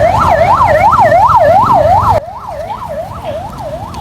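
Ambulance siren in a fast up-and-down wail, about three sweeps a second. It is very loud for about two seconds, then drops suddenly in level and carries on more faintly.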